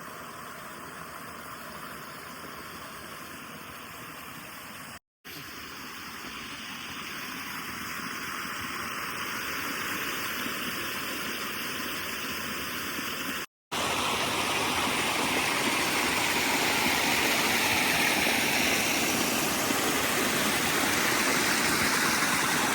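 Waterfall rushing, a steady hiss of falling water. It breaks off twice into brief silence and comes back louder each time, loudest near the end.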